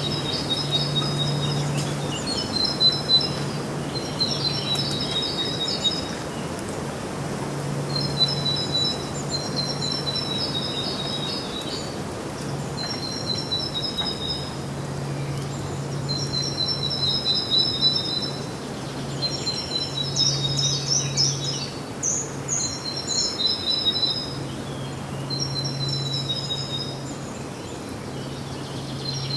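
Songbird singing short high trilled phrases, repeated every second or two, over a steady low hum.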